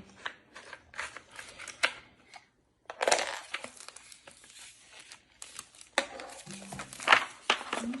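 Crinkling and scattered light clicks of puzzle pieces and their plastic wrapping being handled, with a sudden brief gap about two and a half seconds in.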